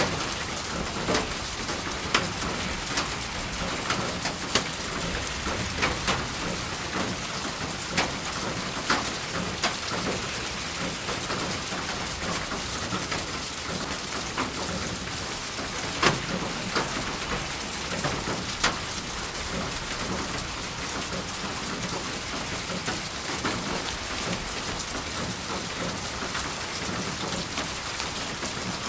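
Steady rain falling, an even hiss with louder nearby drops striking a surface as sharp ticks every second or so.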